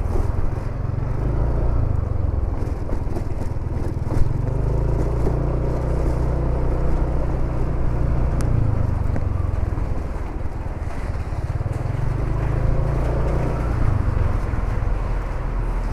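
Motorcycle running at a steady pace, its engine and road noise under a heavy low wind rumble on the microphone, with one short click about four seconds in.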